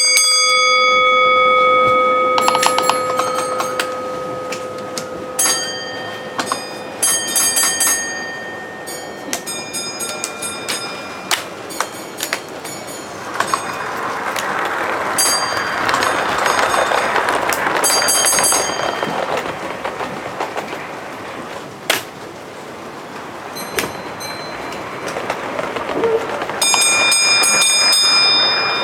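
Model railway trains running on a layout. A held horn-like tone sounds for the first couple of seconds, followed by repeated short high-pitched tones and clicks over a steady running hiss.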